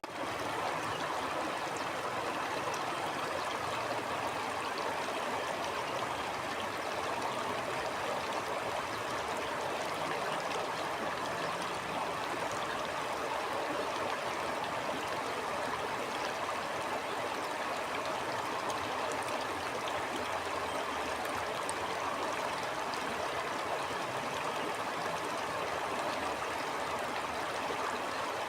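Flowing stream water, a steady, even rush without breaks.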